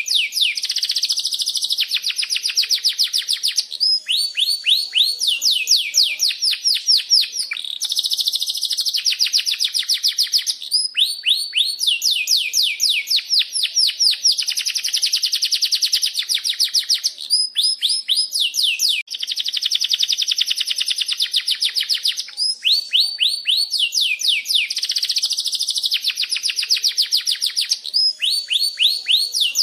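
Domestic canary singing continuously: long rolling phrases of rapid repeated chirps, each trill a quick run of high notes that changes to a new trill every second or two.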